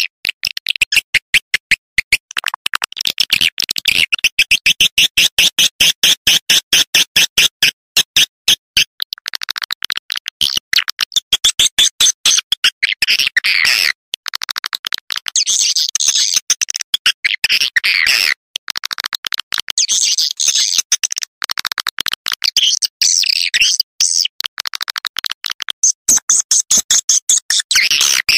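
Swiftlet call recording: a rapid, dense stream of high twittering chirps, many per second, in runs broken by brief pauses. It is the kind of swiftlet call track ('SP', suara panggil) played in swiftlet houses to lure the birds.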